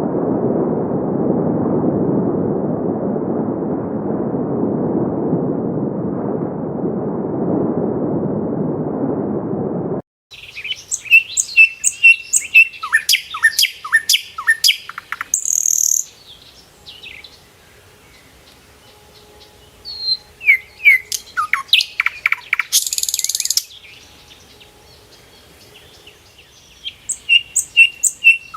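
A steady low rushing noise for about the first ten seconds, cutting off abruptly. Then birds chirping in quick runs of short falling chirps with some sharper high calls, in three bouts separated by quieter pauses.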